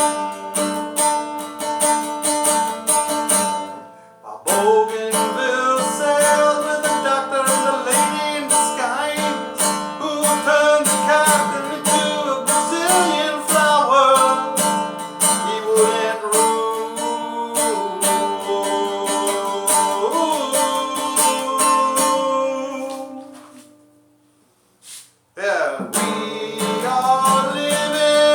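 Acoustic guitar strummed in a steady rhythm while a man sings a self-written song. The playing fades out about four-fifths of the way through, leaving a second or two of near silence, then the strumming starts again.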